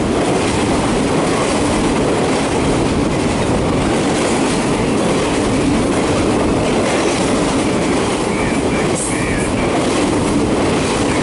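Empty CSX double-stack freight cars loaded with trash containers rolling past close by: loud, steady noise of steel wheels running on the rails.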